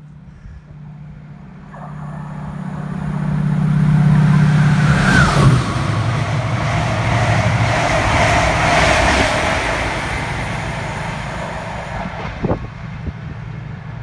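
A diesel train passing at speed. Its engine note grows louder, then drops in pitch about five seconds in as it goes by, followed by rushing wheel-and-rail noise that slowly fades, with a single knock near the end.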